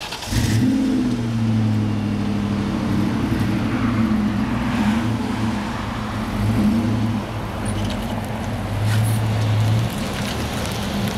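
1997 Ford Mustang's 4.6-litre V8 starting up. It catches just after the start, drops from a high idle within the first couple of seconds, runs unevenly, and changes note near the end as the car pulls away.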